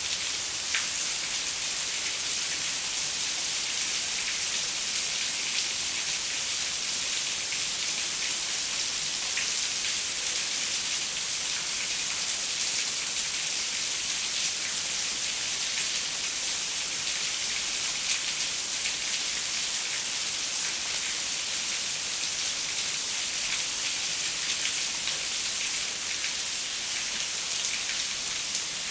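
Steady rain falling on a window, a continuous hiss made of many small drop impacts.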